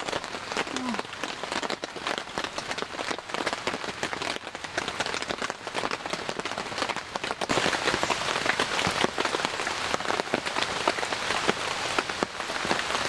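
Steady rain, many separate drops striking a surface, growing heavier a little past halfway.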